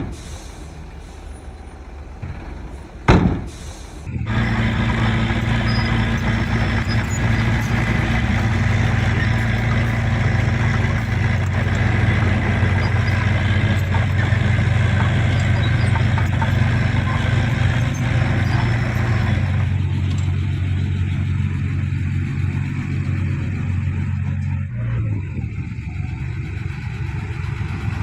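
Heavy diesel engine of earthmoving machinery running steadily at a constant pitch, coming in loudly about four seconds in after a brief sharp burst of noise. About twenty seconds in, its higher-pitched clatter drops away and the low engine note carries on.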